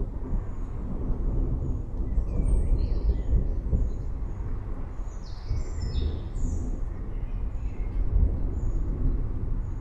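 Forest birds chirping in short scattered calls, busiest in the middle, over a steady low rumble.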